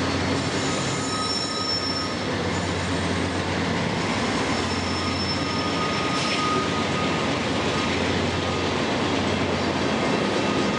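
A train running past on the tracks: a steady, dense rumble with thin, steady high-pitched tones over it.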